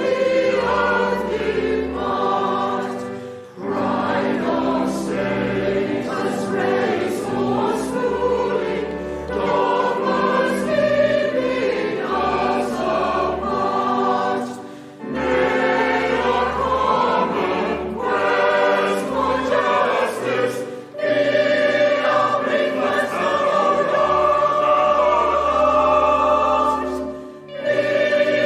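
Congregation singing a hymn in long sustained phrases, with brief pauses between lines.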